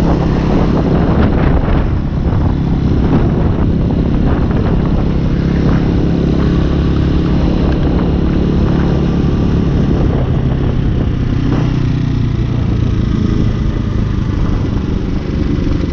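A Hawk 250cc single-cylinder motorcycle engine running steadily while riding, heard through a GoPro's internal microphone with wind and road noise.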